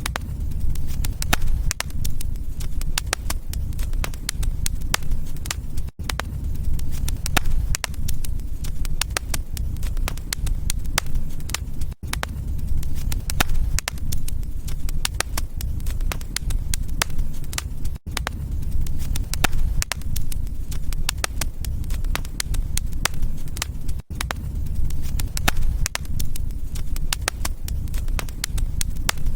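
Wood fire crackling, with dense sharp pops and snaps over a low rumble. The sound drops out for a split second about every six seconds, as a looped recording does.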